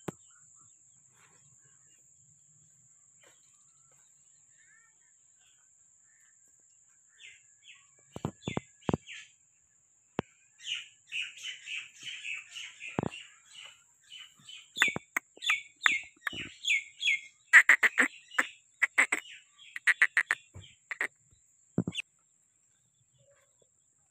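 Small birds chirping in quick, repeated short calls. They start about seven seconds in and grow busier through the middle, mixed with a few scattered sharp knocks.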